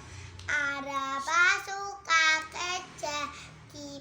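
A child singing unaccompanied in a high voice, holding notes that step up and down in pitch with short breaths between phrases.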